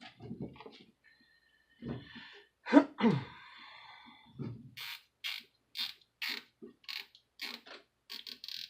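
Nylon zip ties being pulled tight, giving runs of quick, sharp ratcheting clicks, about two a second, through the second half. Earlier there is light handling clatter and, about three seconds in, a short loud creak.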